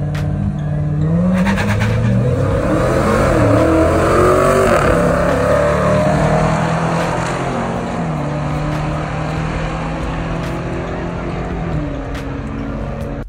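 Lexus IS350 and a Dodge Hellcat accelerating hard down a drag strip at full throttle: engine pitch rises and drops back with each gear change, loudest as the cars pass about four to five seconds in, then running on more steadily as they pull away.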